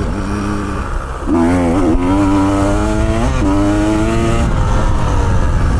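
Motorcycle engine running under load while riding: the revs dip about a second in, then climb and hold, shifting pitch again around three and four and a half seconds in, over a constant low rumble.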